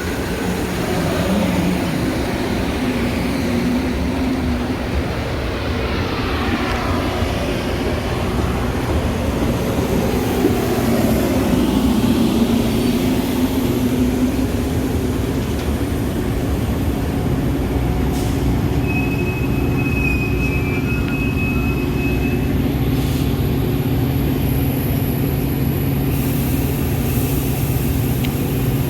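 Metra commuter train in motion: a steady rumble and hum, with tones that glide up and down in pitch through the first half. A brief high steady tone sounds about two-thirds of the way through.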